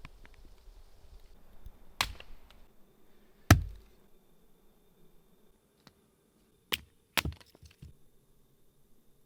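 Wood being chopped: four sharp, separate strikes, the second the loudest with a short ring after it, and the last two close together.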